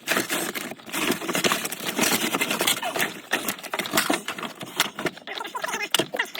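Loose items being moved by hand around an air handler: a busy run of clicks, knocks, rustles and scrapes.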